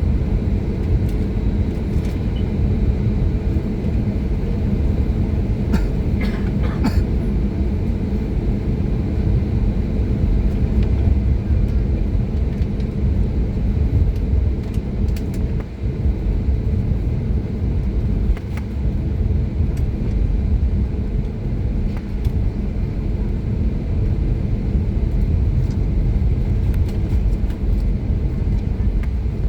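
Steady low rumble inside the cabin of an Airbus A320neo, from its engines and airframe, with a few faint ticks.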